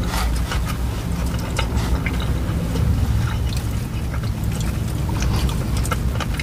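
Close-miked chewing and wet mouth sounds of eating a chicken and rice bowl, with scattered small clicks of forks, over a low steady rumble.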